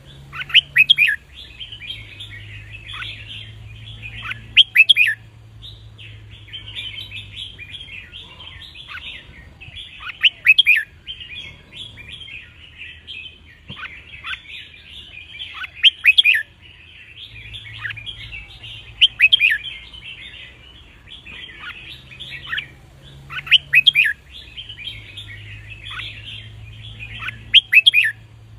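Red-whiskered bulbuls singing: loud, short song phrases ring out every few seconds over continuous chirping chatter from other birds.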